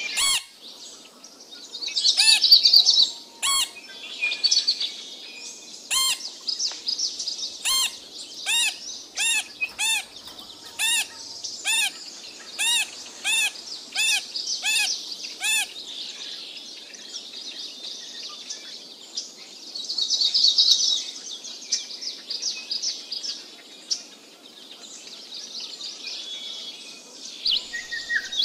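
Birds chirping and twittering, with louder bursts of twitter near the start and about two-thirds through. In the middle, one bird gives a long run of repeated clear call notes, about two a second, for about eight seconds.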